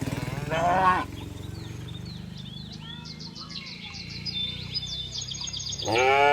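Cattle mooing: a short call about half a second in, then a louder call that rises and falls near the end. Small birds chirp faintly in between.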